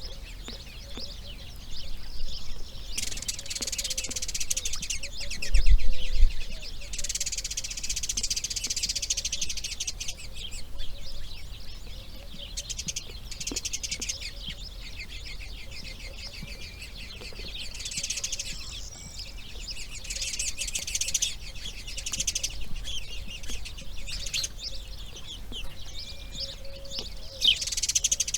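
Birds chirping in repeated bouts of rapid, high calls that come and go every few seconds, with a low thump about six seconds in.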